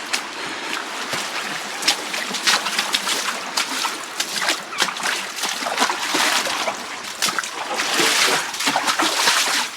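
Feet wading and splashing through shallow creek water, in irregular splashes over the steady rush of the flowing stream.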